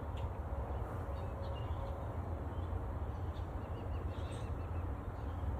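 Newly installed honeybee colony buzzing steadily around the hive, with faint bird chirps over it.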